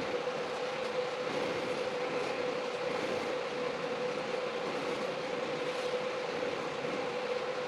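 A motor-driven shop machine running steadily: an even hiss with a constant hum, unchanging throughout.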